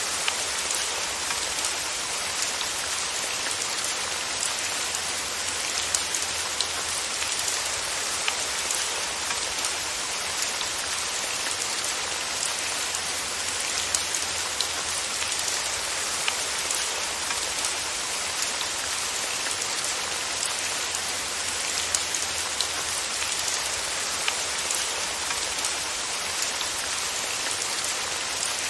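Steady rain falling, an even hiss with scattered louder drops ticking against a surface.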